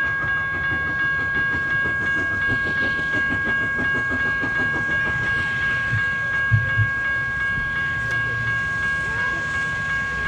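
Train rolling past: a steady low rumble of wheels on rail, with louder clunks a little past the middle as wheels cross rail joints. A steady high-pitched whine runs underneath.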